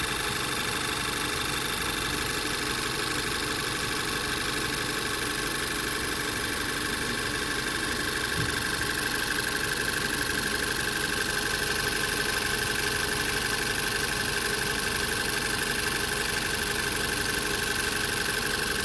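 2017 Volkswagen Tiguan engine running steadily at idle after a new fuel injector has been fitted for a random-misfire fault.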